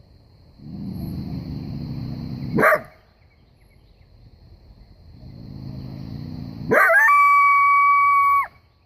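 Coyote bark-howling: a low growl rises into a sharp yelp, then a second growl sweeps up into one long, steady howl that cuts off abruptly near the end.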